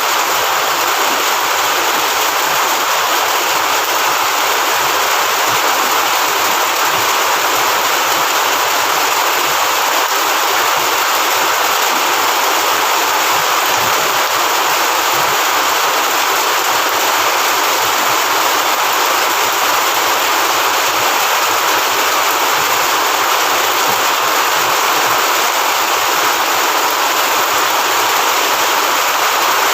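Steady heavy rain, an even hiss without breaks or changes.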